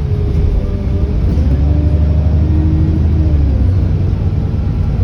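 ADL Enviro400 double-deck bus's diesel engine running under load, heard from on board, with its pitch rising and then falling over a few seconds.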